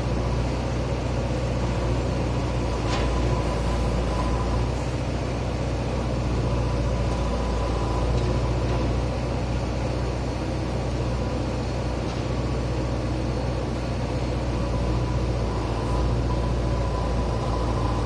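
JCB digger's diesel engine running steadily at a working speed, with a thin high whine that comes and goes and a single faint click about three seconds in.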